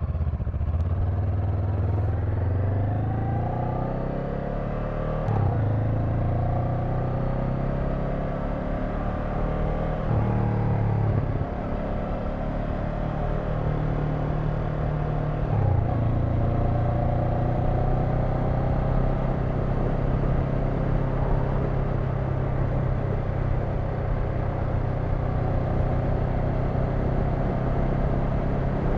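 Honda NX500's parallel-twin engine running on the move, its pitch climbing and dropping back as it shifts up through the gears a few times in the first half, then holding steady at cruising speed.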